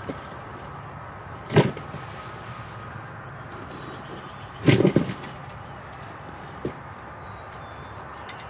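Wild turkeys calling in the field: two loud, short bursts of quick pulses, one about a second and a half in and a longer one near five seconds, over a steady faint morning background.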